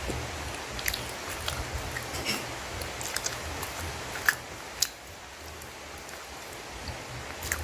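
Close-miked chewing of tough village-chicken offal: wet mouth clicks and smacks at irregular moments, the two loudest a half-second apart in the middle, over a steady hiss.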